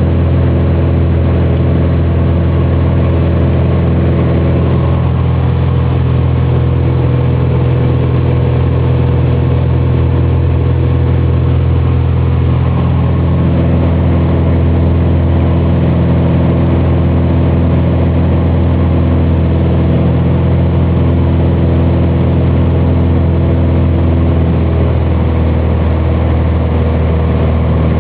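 Cessna 180's six-cylinder piston engine and propeller running loud and steady at constant power, with the drone's tone shifting slightly now and then.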